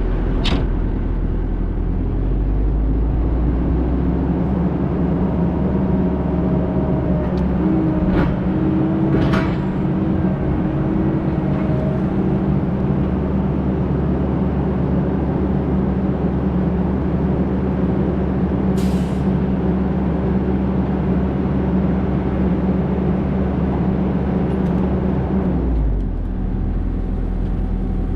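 Heavy truck engine running steadily, with a short hiss of air, typical of an air brake, about 19 seconds in. A few light clicks come early on, and the engine's low note shifts near the end.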